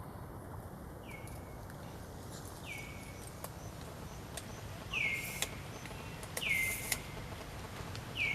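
A bird calling over and over, roughly every second and a half: each call is a short note that swoops down and levels off, and the calls grow louder about halfway through.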